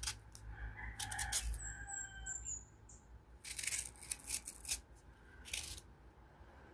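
Knife cutting through crunchy fresh mango, in a few short crisp crunches. A bird chirps in the background about a second and a half in.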